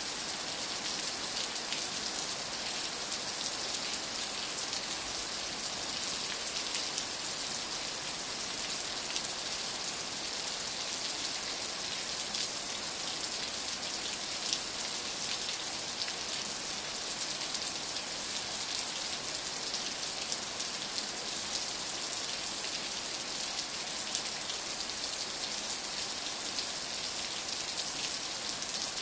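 Steady rain falling: an even hiss with fine ticks of single drops scattered through it.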